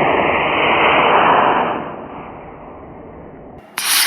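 Model rocket motor burning with a loud, steady rushing hiss that fades away over the first two seconds as the rocket climbs. Near the end there is a short, sharp, loud burst.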